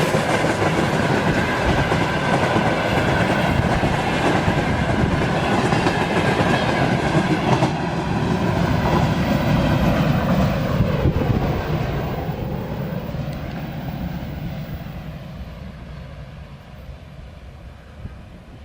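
A train rolling past close by, loud and steady for the first ten seconds or so, then fading steadily as the last cars move away.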